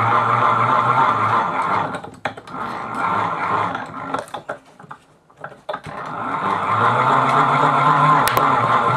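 Geared 36-volt electric scooter motor being hand-cranked as a generator, its gears whirring noisily. It spins for about two seconds, slows, spins briefly again, trails off into a few clicks, then builds up again from about six seconds in with the hum rising slightly in pitch, and stops near the end.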